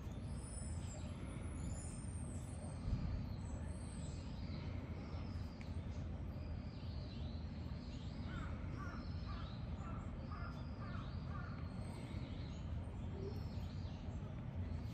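Birds chirping with short, high, repeated calls over a steady low hum, with a run of harsher, crow-like cawing about eight seconds in.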